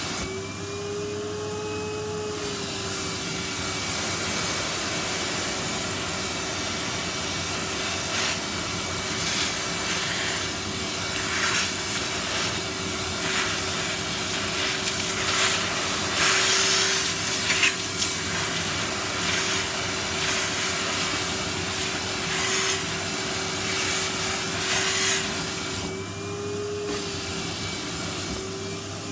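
Numatic Henry cylinder vacuum cleaner running with a steady motor whine, its nozzle worked over bare feet, which adds irregular rasping bursts in the middle. The motor's pitch shifts briefly near the end.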